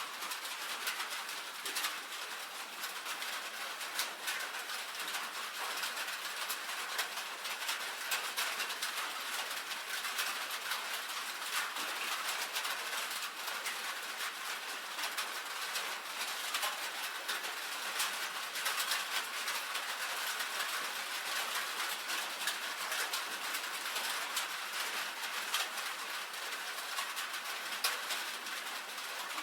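Steady rain on a tin roof: a constant hiss of rainfall with many sharp individual drops tapping on the metal.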